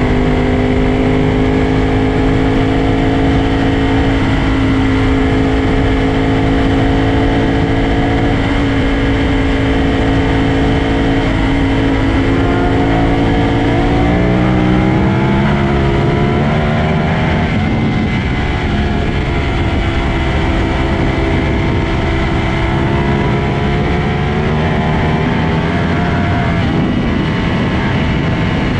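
Sport motorcycle engine running at high, steady revs at highway speed, with a haze of wind and road noise. About halfway through, the engine note climbs as it accelerates, then holds steady again.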